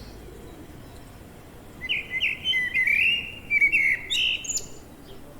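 A songbird singing a quick, broken, chattering phrase lasting about three seconds, starting about two seconds in, over a faint steady outdoor background hiss.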